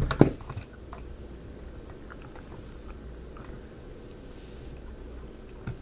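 Small wooden kit parts being handled and fitted by hand: two sharp clicks at the very start, then a few faint scattered ticks and taps.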